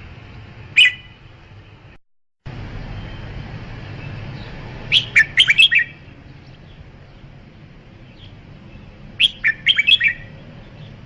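Red-whiskered bulbul singing: a single clear note, then two quick, chirpy phrases of about six notes each, a few seconds apart.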